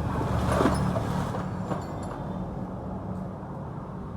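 An engine running steadily at a low hum. There is a brief louder rush of noise about half a second in.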